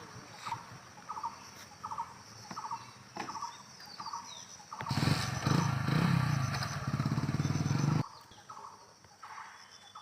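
A bird calling with short repeated chirps, roughly one or two a second. From about five seconds in, a much louder low rumble covers them for about three seconds and then cuts off abruptly.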